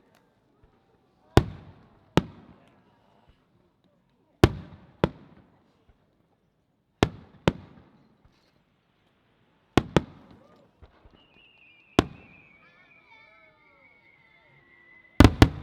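Firework shells bursting in the sky: sharp bangs, mostly in close pairs, about every two and a half to three seconds, each dying away in an echoing tail, with a tight cluster of bangs near the end. A long, slowly falling whistle runs through the last few seconds.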